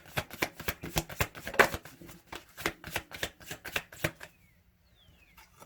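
A deck of tarot cards being shuffled by hand: a rapid run of card flicks and clicks that stops about four seconds in.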